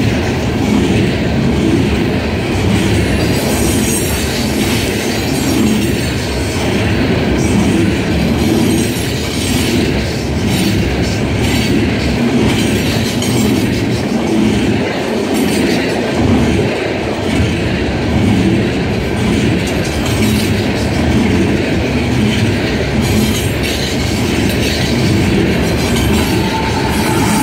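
Loaded coal hopper cars of a freight train rolling steadily past at close range: steel wheels running on the rails.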